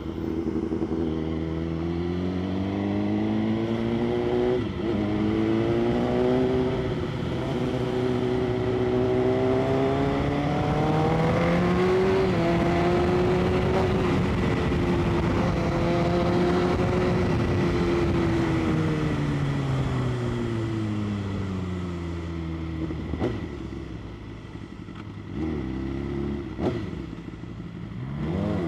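BMW S1000RR's inline-four engine under way. Its note climbs for about a dozen seconds, holds, then falls as the bike slows, with two short knocks near the end.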